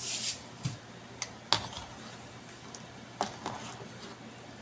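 A few sharp, separate clicks and taps of a cooking utensil against a pot while the filling is seasoned and stirred, after a brief hiss right at the start.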